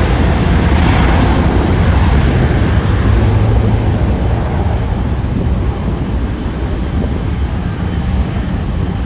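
Jet airliner passing close by, a loud engine roar with a deep rumble that is loudest in the first few seconds and then slowly fades as the aircraft moves away.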